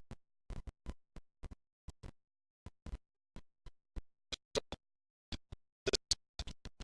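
Irregular short clicks and taps, a few a second, with dead silence between them as if the audio is cutting in and out; a few sharper clicks come in the second half.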